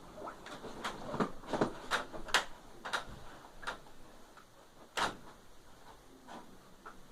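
Irregular light clicks and knocks, about a dozen in the first five seconds, the sharpest one about five seconds in.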